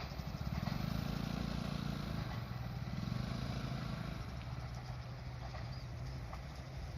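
Freight train running, with a steady low engine-like hum.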